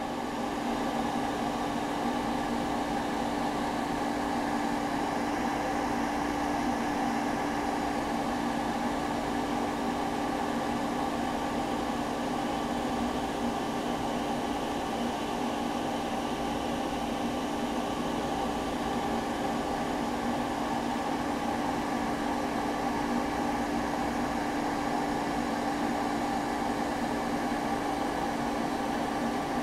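A steady mechanical hum with a constant low tone and a noisy hiss, unchanging throughout: a motor or fan running.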